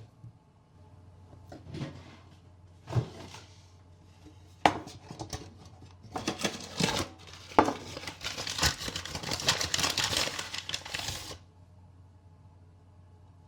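Household objects being handled: a few sharp knocks and clatters, then several seconds of dense rustling and scraping that stops abruptly near the end.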